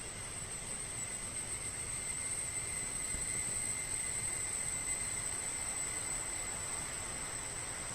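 Steady rushing of a waterfall, with a steady high-pitched drone of insects in the forest over it.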